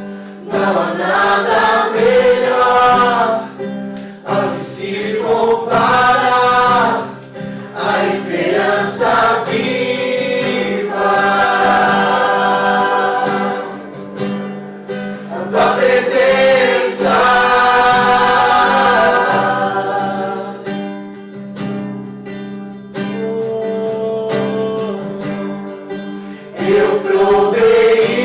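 A small group singing a worship song together to acoustic guitar, voices in long held phrases over strummed chords.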